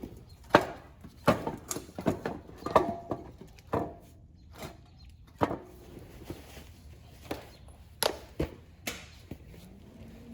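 Irregular knocks and clanks of a steel exhaust pipe being handled and knocked into position for welding, about ten strikes of uneven spacing, several with a short metallic ring.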